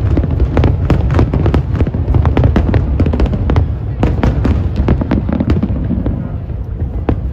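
Aerial fireworks display: a rapid barrage of sharp bangs, several a second, over a deep, continuous rumble, thinning out near the end.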